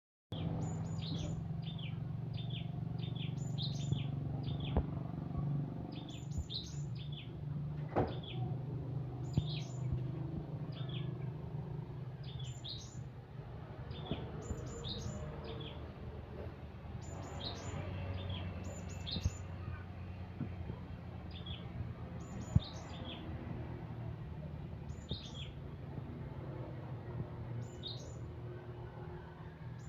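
Cinereous tit (gelatik batu) calling: short high chirps in quick clusters, repeated every second or two, over a steady low hum with a few sharp clicks.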